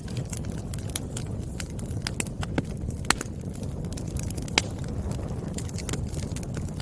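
Burning firewood crackling and popping over a low steady rumble of flames, with scattered sharp pops, two louder ones about three and four and a half seconds in.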